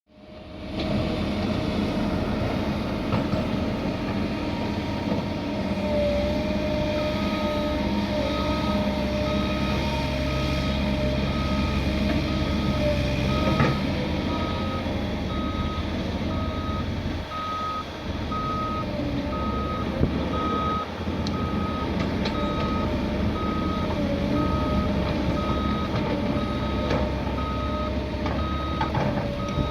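Diesel excavators and tractors running steadily under load. A reversing alarm joins about seven seconds in, beeping evenly about once a second.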